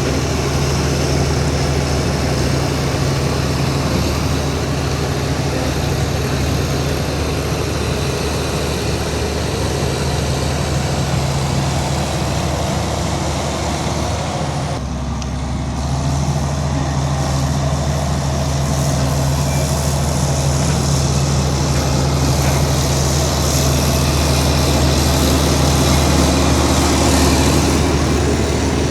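Heavy diesel engine of earthmoving machinery running steadily at a constant speed. It thins out briefly about halfway through, then carries on.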